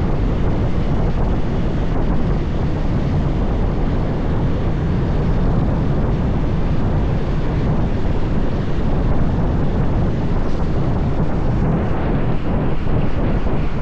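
Steady wind noise on the microphone over the running of a motorbike at road speed, a continuous low rush with no let-up.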